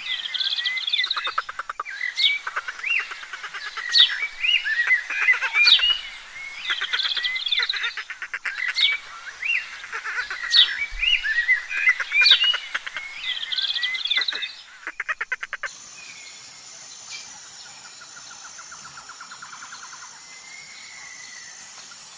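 Small songbirds chirping and singing, with many short rapid calls and sweeping whistles overlapping. About fifteen seconds in, the birdsong stops abruptly and gives way to a much quieter steady background with a faint high hum.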